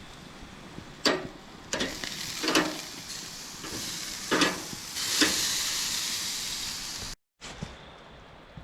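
Pork sizzling on a small grill, with several sharp clinks and knocks of cooking utensils. The sizzling grows louder about five seconds in, then cuts off suddenly near the end.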